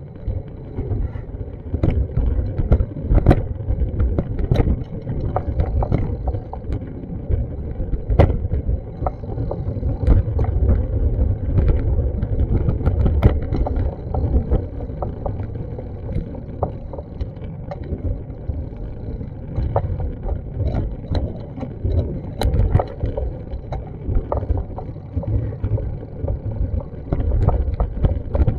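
Steady low rumble of wind and street noise on an action camera's microphone, with irregular knocks and clicks scattered through it.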